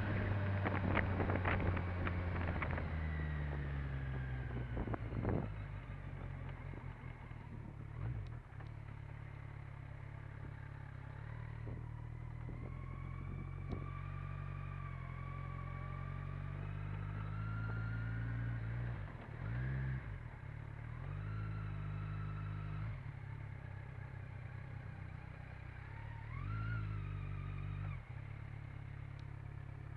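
Motorcycle engine running at low road speed, heard from the bike itself, with wind buffeting the microphone for the first few seconds. The engine then settles into a steady low run, with a brief rev rise near the end.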